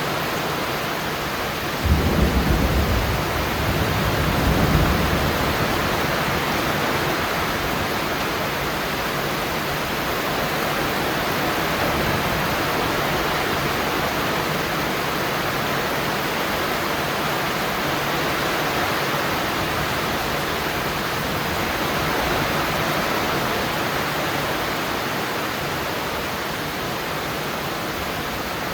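Steady rain falling. About two seconds in, a sudden low roll of thunder rumbles for a few seconds and fades.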